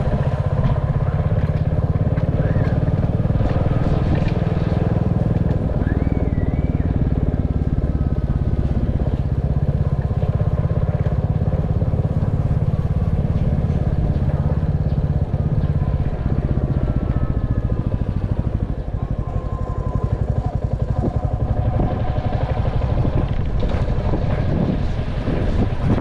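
Royal Enfield Classic 350's single-cylinder engine running steadily as the motorcycle rides along.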